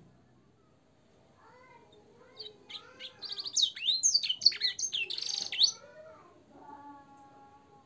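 Canary-type finch song in a fast, varied phrase. It starts after a short pause, with quick chirps and sharply falling whistles and a brief buzzy trill at its loudest. It ends in a few steady whistled notes held near the end.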